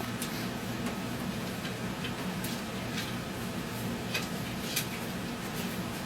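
Scarlet macaw's claws clicking on a hard floor or stairs as she walks, a few irregular sharp ticks spaced about half a second to a second apart.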